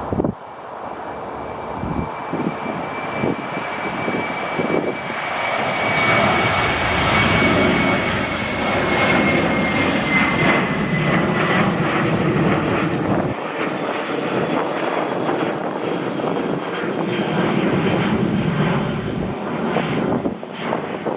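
An airliner flying past, its engine rush swelling over the first several seconds and then holding. A thin high whine falls in pitch about ten seconds in as it goes by. Gusts of wind buffet the microphone.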